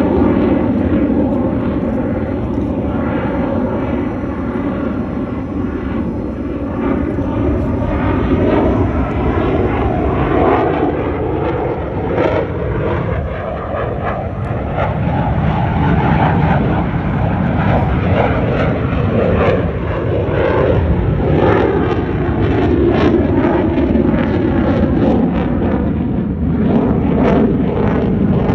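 Jet aircraft engine noise: a loud, continuous rush whose pitch bands drift slowly up and down.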